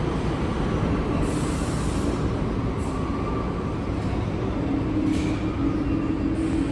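New York City subway train running through the station: a steady rumble of wheels on rail, with a few short high hisses and a held tone in the second half.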